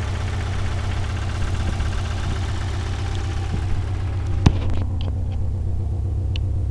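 Subaru flat-four engine idling with a steady, evenly repeating knock, which the owner takes for a knocking motor. A single sharp click about four and a half seconds in.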